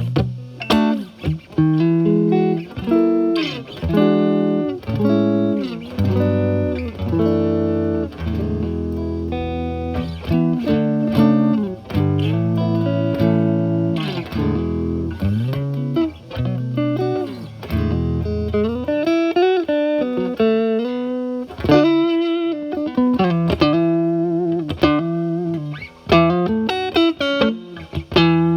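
Stratocaster with single-coil alnico pickups played through a Paul Cochrane Timmy overdrive pedal at about gain 9 into a Marshall Valvestate clean channel: a lightly driven electric guitar playing a run of picked notes, some held and ringing, with string bends near the middle.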